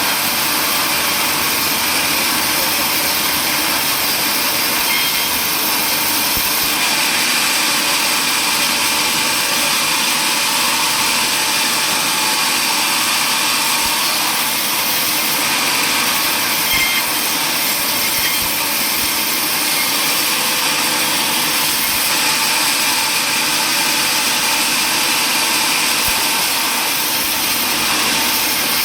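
Power saw running steadily while cutting wood, a continuous loud noise with no breaks.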